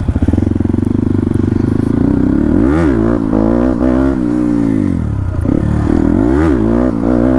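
Dirt bike engine running steadily, then revved up and back down about three times in quick succession.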